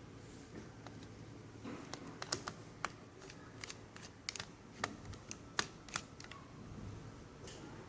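Irregular small, sharp plastic clicks and ticks from a netbook being taken apart by hand, bunched between about 2 and 6 seconds in.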